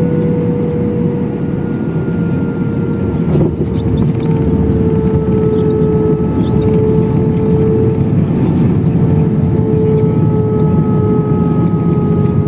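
Airbus A321 jet engines and airflow heard from inside the cabin: a loud, steady rumble with a whining tone that slowly drops in pitch.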